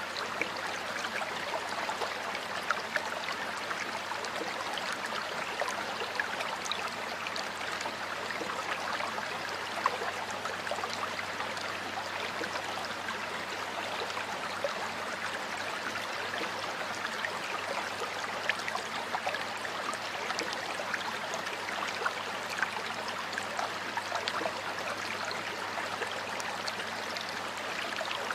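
Water of a stream flowing steadily over stones, a continuous rushing with small splashes and gurgles throughout.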